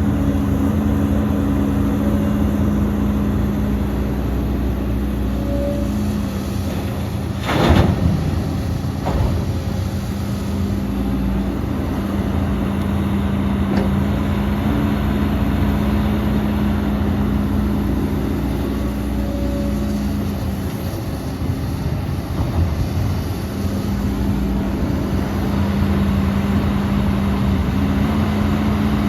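Heavy diesel engine of earthmoving machinery running steadily at a constant speed, with a brief loud burst of noise about seven and a half seconds in.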